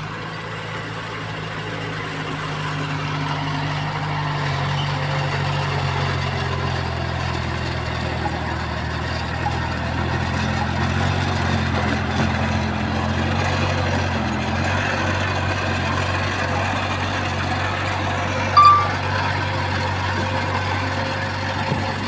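Heavy diesel construction machinery engine running steadily under light load, with a short high-pitched tone about nineteen seconds in.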